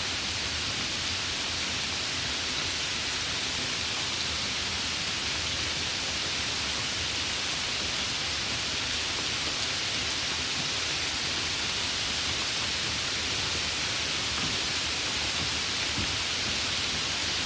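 Light rain falling in a steady, even hiss, with a few faint drop ticks.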